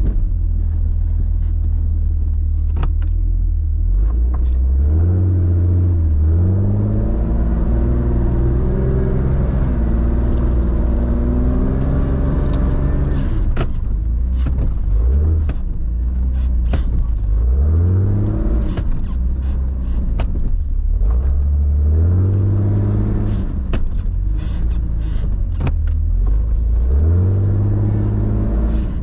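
A 4x4's engine revs up and settles back again and again, about five surges, as it works through deep snow. Sharp clicks and knocks are scattered throughout.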